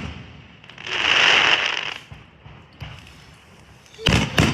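Fireworks going off: a loud crackling hiss for about a second, then a quick run of sharp bangs near the end.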